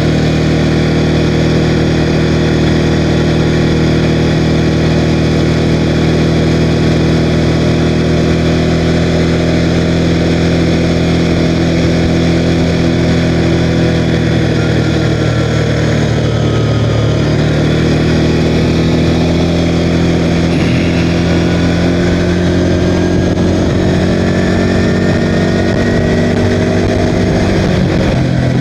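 CFMOTO CForce 520L ATV's single-cylinder engine running steadily as the quad is ridden along, its pitch rising and falling a little in the second half.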